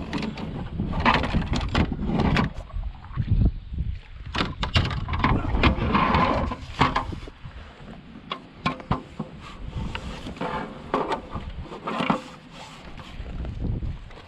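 Irregular knocks, clatter and rustling from handling a freshly caught largemouth bass and measuring it aboard a kayak.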